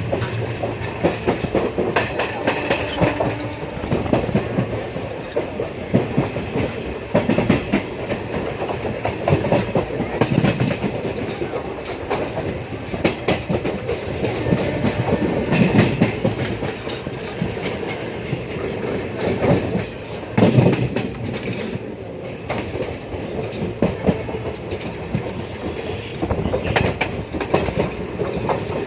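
Train running along the track, its wheels clacking and knocking irregularly over the rail joints above a steady rumble.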